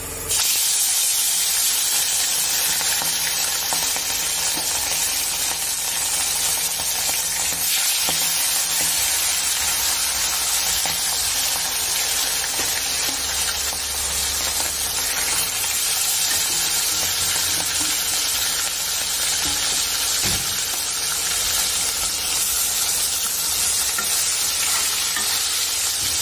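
Hilsa fish pieces frying in hot oil in a wok: a loud, steady sizzle that starts suddenly as the first piece goes into the oil.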